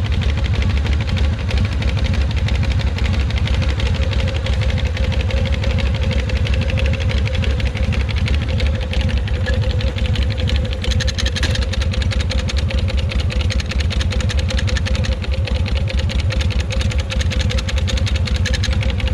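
Harley-Davidson Shovelhead air-cooled V-twin engine idling steadily with an abnormal noise that the riders place inside the engine area. One of them suspects a loose belt flapping.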